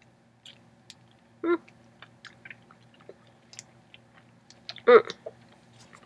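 Wet mouth clicks and smacks of someone sucking and chewing slimy konnyaku jelly squeezed from a tube, with two short vocal sounds about one and a half seconds and five seconds in.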